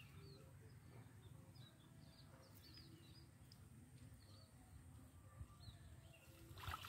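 Near silence: a low, steady outdoor background with faint, short, high bird chirps now and then.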